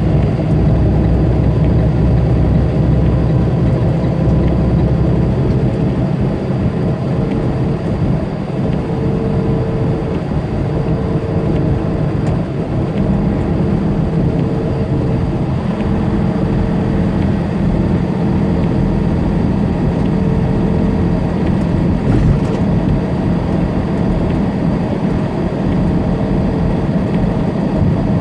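Tractor-trailer's diesel engine and road noise heard from inside the cab while cruising on the interstate: a steady low drone with no marked change.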